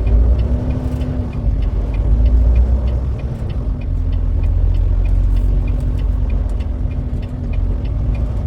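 Semi-truck's diesel engine running, heard from inside the cab: a heavy, steady low rumble with a hum over it and faint, regular ticking about three times a second.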